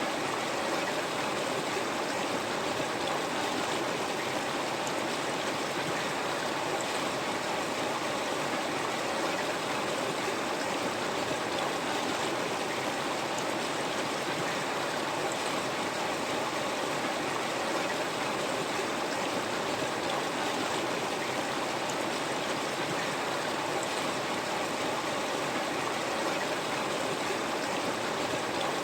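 River water flowing over rocks: a steady, even rush with small trickling and gurgling detail, unchanging throughout.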